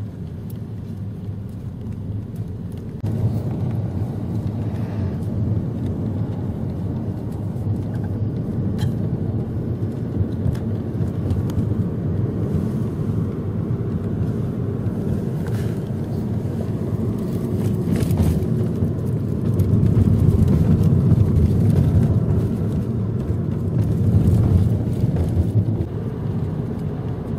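Car driving with a steady low engine and road rumble. It gets louder about three seconds in and swells for a spell near the end.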